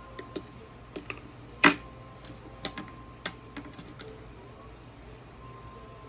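Scattered light clicks and taps of watercolour tools, a brush and palette being handled, with one louder knock a little under two seconds in. The taps die away after about four seconds.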